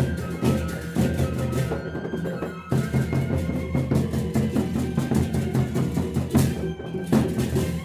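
Gendang beleq music: large Sasak drums beating a rhythm with percussion, under a held melody line from the suling flute.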